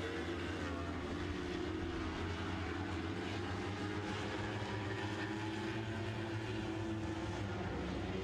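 A pack of Lightning Sprint cars with 1,000cc motorcycle engines running hard in race gear, a steady engine drone whose pitch drifts gently up and down as the cars circle the track.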